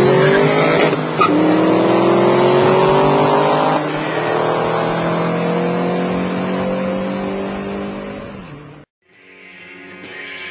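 A 2003 Mustang SVT Cobra's supercharged V8 accelerating hard, its pitch climbing through gear changes about a second in and about four seconds in. The engine sound cuts off suddenly near the end, and music begins to fade in.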